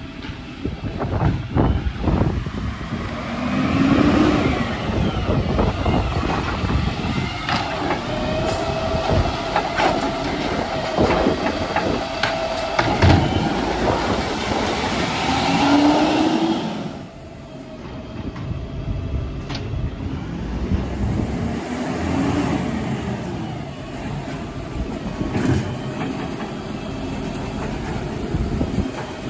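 Garbage truck at work: the engine revs up several times to drive the hydraulics, with clanks and knocks in between, under heavy wind noise on the microphone.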